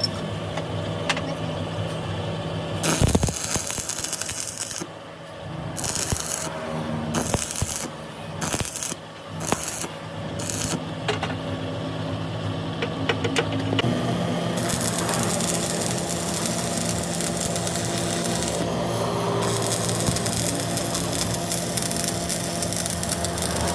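An engine running steadily, with metal clinks and knocks from tool work over it in the first half, then a steadier rushing noise.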